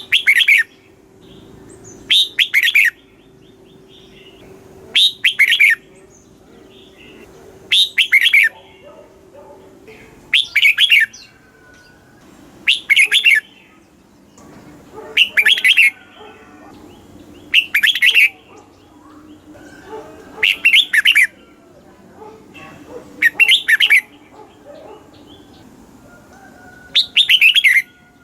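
Red-whiskered bulbul singing: short, loud whistled phrases repeated about every two and a half seconds, about a dozen in all. This is the song used to excite caged bulbuls.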